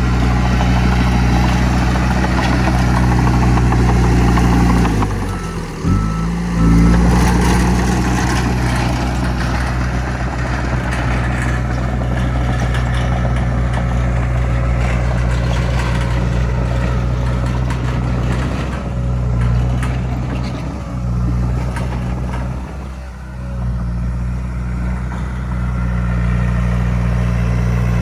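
Heavy diesel earthmoving machinery running steadily, with a brief drop and swing in the engine note about six seconds in and short dips near the end.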